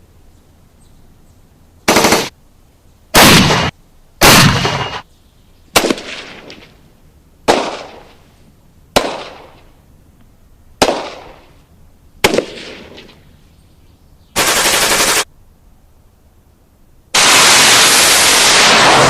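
Gunfire sound effects: a few short bursts of automatic fire, then single sharp shots about a second and a half apart, each with a fading echo, then another short burst that cuts off abruptly. Near the end a long, loud, sustained burst of fire begins.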